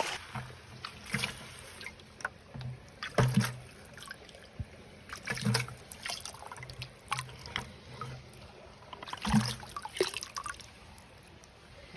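Water trickling and sloshing with scattered clicks and knocks of gravel and metal, as a small gold sluice's concentrates are washed out and handled in creek water.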